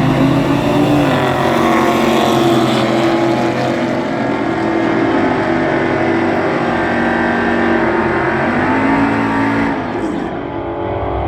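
A drag-racing truck making a pass down the strip, its engine running hard with tones that shift in pitch. The engine sound thins out and softens about ten seconds in.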